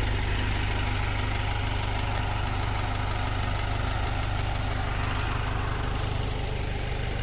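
Tractor engine idling steadily with a low, even rumble.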